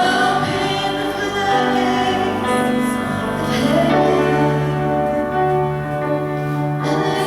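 Church singing: several voices together holding long, sustained notes, gospel-style.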